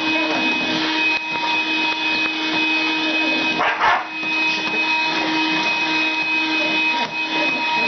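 Vacuum cleaner motor running with a steady whine while a dog barks and yips at it, the loudest sound coming about four seconds in.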